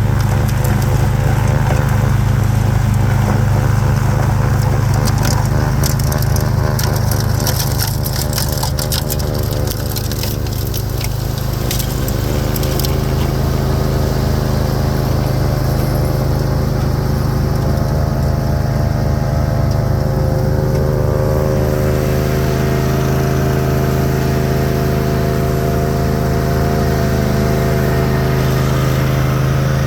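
Craftsman YT4000 lawn tractor engine running steadily while it drives a front-mounted Bercomac snowblower through heavy wet snow. A little before halfway the engine pitch drops briefly and then recovers. Sharp crackling of snow and ice runs through the first dozen seconds.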